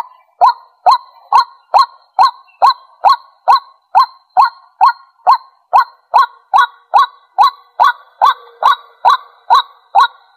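White-breasted waterhen calling: a steady, evenly spaced run of short, identical notes, a little more than two a second, that stops abruptly near the end.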